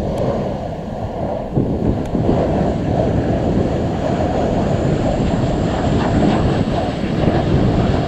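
Jet airliner passing low overhead on final approach to land, its engines growing louder about a second and a half in, with a faint high whine above the engine noise.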